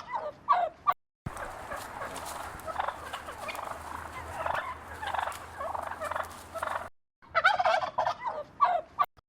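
Domestic turkey gobbling: rapid warbling gobbles at the start and again near the end. Between them is a quieter stretch of fainter calls over a steady low background hum.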